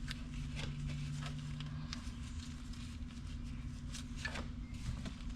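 Faint scattered clicks and taps of small parts being handled, over a steady low hum; a second steady tone sounds for about a second and a half near the start.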